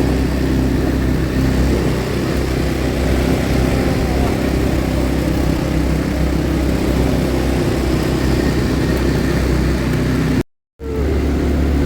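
ATV engine running steadily at an even throttle. The sound cuts out for a moment near the end.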